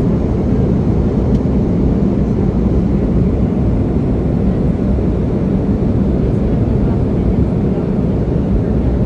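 Steady cabin noise of an Embraer E175 regional jet in flight: a deep, even rumble from its turbofan engines and the airflow over the fuselage.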